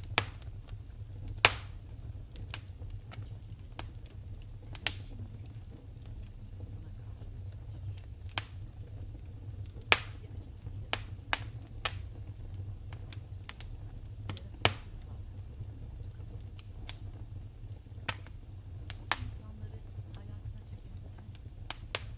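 Wood fire in a fireplace crackling, with sharp irregular pops every second or two over a steady low rumble.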